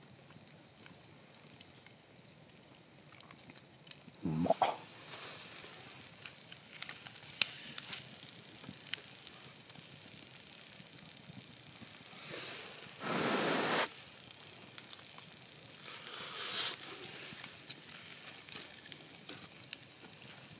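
Food sizzling in a pan over a campfire, with sharp pops and crackles. The sizzle swells louder for about a second and a half near the middle and again briefly later.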